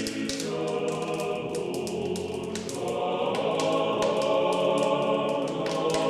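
Choir singing sustained chords as closing music, growing fuller and louder about two and a half seconds in.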